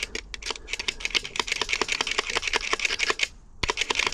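Rapid, irregular metallic clicking and clattering from the small parts of a UPVC door lock gearbox being worked by hand, pausing briefly near the end before starting again.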